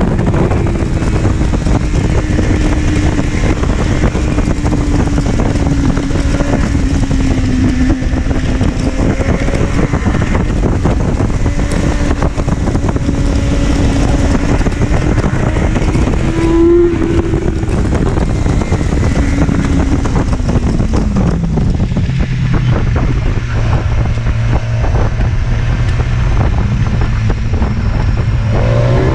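Motorcycle engine running under way at steady revs with wind rushing over the microphone. About 17 s in the revs blip briefly, around 21 s they fall away to a low, steady note, and at the very end they start to climb again.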